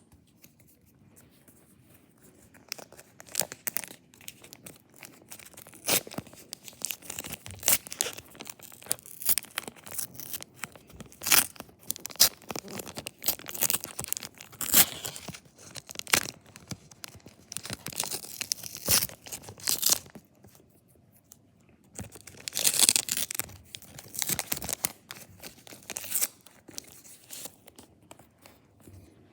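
A Panini Adrenalyn trading-card pack wrapper being torn open and crinkled in repeated runs of sharp crackling, pausing briefly about twenty seconds in.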